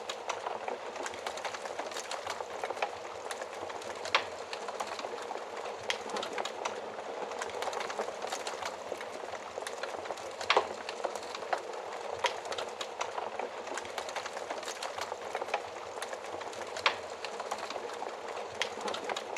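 Wood fire crackling: a steady hiss of burning with frequent sharp pops and snaps, a few louder ones standing out.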